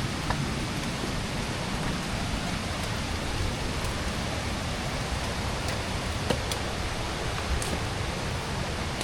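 Steady rushing of water from a rainforest stream or waterfall, an even hiss with a few faint ticks.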